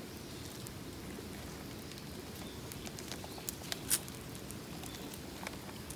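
Wood campfire burning, a steady low rush with scattered sharp crackling pops, the loudest pop about four seconds in.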